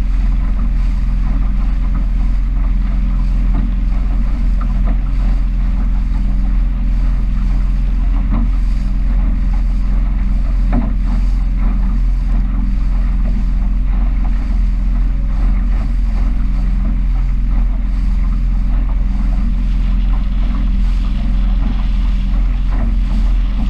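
Small powerboat's engine running at a steady speed, a low drone, with wind noise on the microphone and water rushing past the hull.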